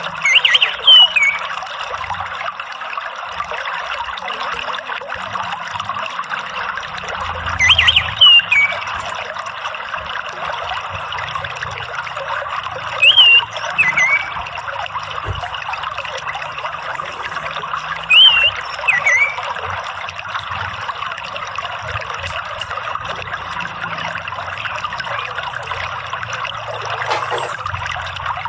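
Water trickling and running steadily. Four times, roughly every five seconds, an orange-headed thrush gives a short, loud call of two quick notes, one sliding up and one sliding down.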